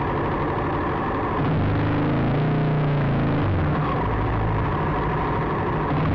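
Motorcycle engine running while riding through slow street traffic. Its steady hum grows louder from about a second and a half in until nearly four seconds in.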